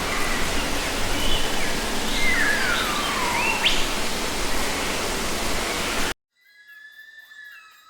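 Forest ambience: a steady loud rushing hiss with bird calls over it, among them a long falling whistle in the middle. About six seconds in, it cuts off abruptly, and softer overlapping whistled bird songs follow.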